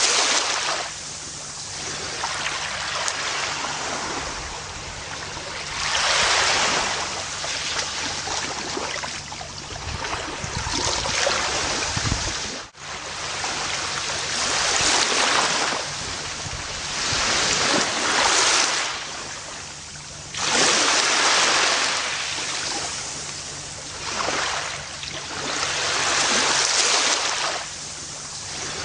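Ocean waves breaking and washing up a beach, the surf swelling and fading every few seconds, with a brief sudden dropout about twelve seconds in.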